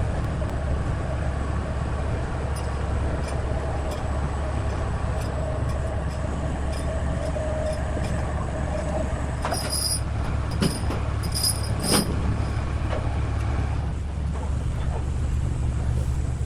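A heavy machine's engine running steadily with a low rumble, with a few sharp metallic clanks about ten and twelve seconds in.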